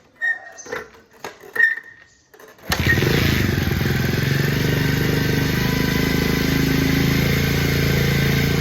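A few clicks and knocks, then about two and a half seconds in a 2009 Bajaj Pulsar 150's single-cylinder engine catches suddenly and runs steadily at idle.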